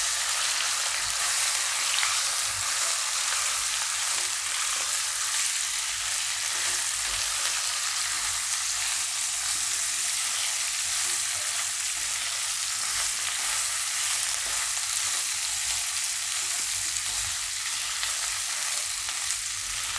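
Cut okra sizzling steadily in hot oil in a nonstick pan, turned over with a silicone spatula.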